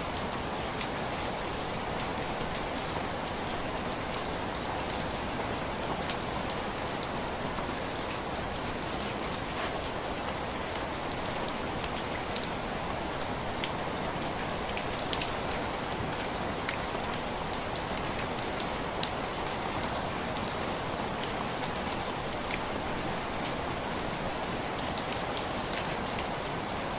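Steady rain falling on window glass, a constant hiss with many scattered sharp drop ticks, one louder than the rest about two-thirds of the way through.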